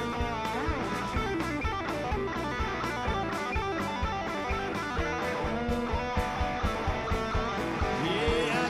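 Live blues band playing an instrumental break: guitar lead with sliding, bending notes over a steady drum beat.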